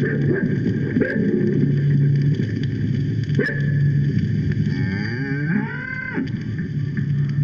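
Cattle mooing, several drawn-out low calls, one rising and falling near the end, played from a theatrical sound-effects gramophone record over its surface noise.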